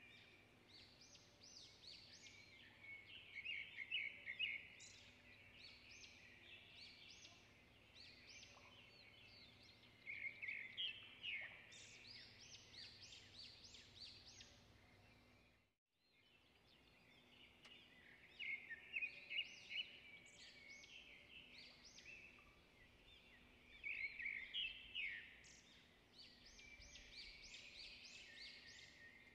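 Faint bird chirping in clusters of rapid high chirps every few seconds, cutting out briefly about sixteen seconds in before the chirping resumes.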